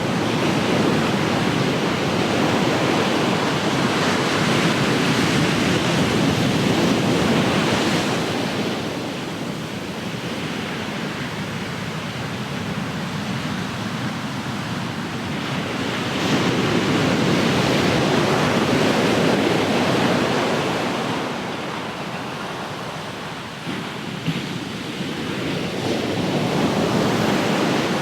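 Ocean surf washing onto the shore, a continuous rush of water that swells and eases. Louder surges come in about every eight to ten seconds.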